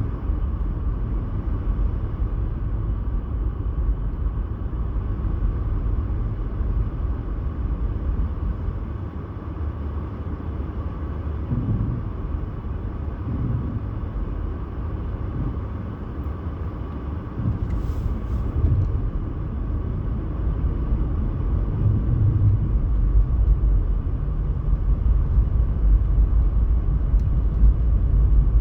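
Steady low rumble, with a faint steady hum above it.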